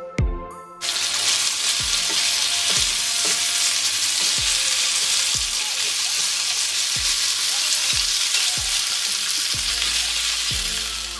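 Bowtie pasta, bell peppers and mushrooms sizzling in a hot non-stick frying pan as tongs toss them. The sizzling starts about a second in and fades near the end, with a steady music beat underneath.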